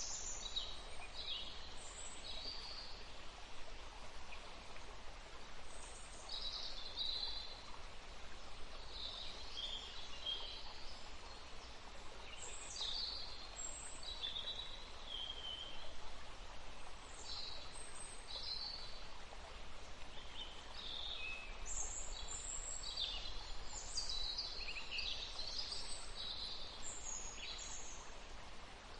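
Forest birds singing, many short chirps and trills from several birds at once, over a steady rush of a flowing stream.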